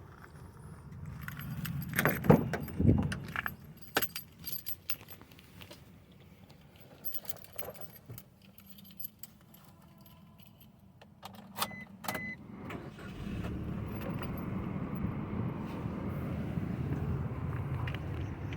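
Keys jangling and handling knocks, a short electronic beep, then about thirteen seconds in the Maruti Suzuki Vitara Brezza's 1462 cc four-cylinder petrol engine starts and settles into a steady, quiet idle.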